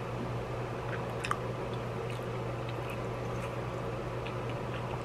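Quiet wet mouth clicks and smacks of a person chewing and slurping instant noodles, with one sharper tick about a second in, over a steady electric fan hum.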